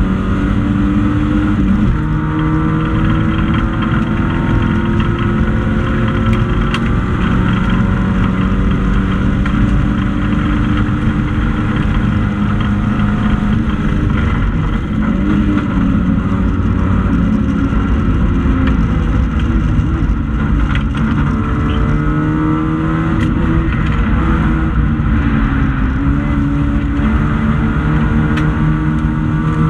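Hatchback racing car's engine running hard at high revs, heard from inside the stripped cabin, its pitch climbing and dropping several times as it accelerates and shifts gears.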